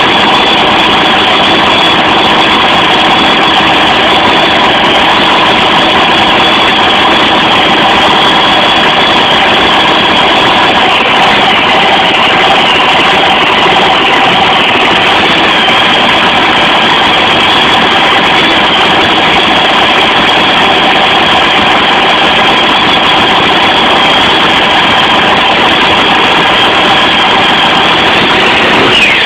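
Monster truck engine idling loudly and steadily.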